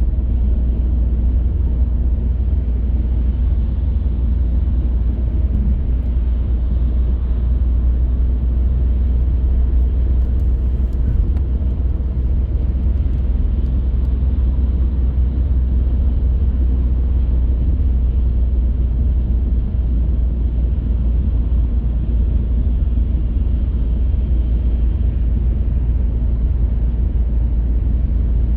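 Car driving at a steady pace: a constant low rumble of road and engine noise with no change in speed or gear.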